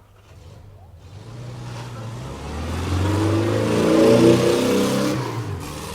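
A car engine revving, swelling to its loudest about four seconds in and then fading away.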